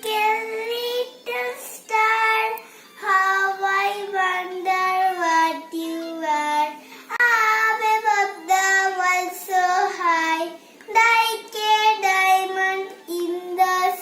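A child singing a nursery rhyme, held notes stepping up and down in short phrases with brief breaths between them.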